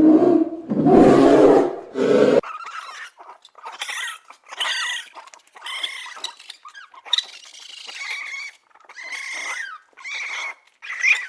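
An animal's deep, rough growl or grunting roar for about two seconds, then a run of many short, high-pitched squeals or whines that bend up and down in pitch.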